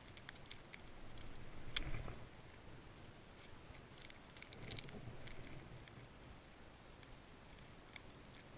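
Scattered faint clicks and light knocks, with one sharper click about two seconds in and a small cluster near five seconds.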